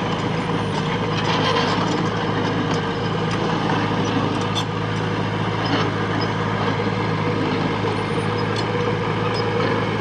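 Heavy machine's diesel engine running steadily under load, with scattered light metallic clicks and clanks.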